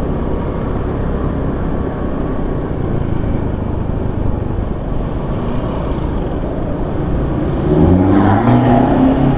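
Steady traffic and road noise with wind rumbling on the microphone while riding along a city street. Near the end, an engine revs up, its pitch rising in steps.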